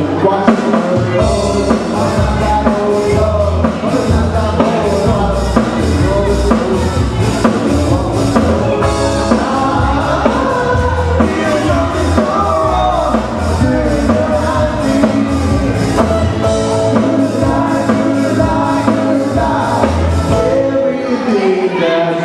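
Live band music: a song with a steady drum-kit beat, bass and a sung vocal line.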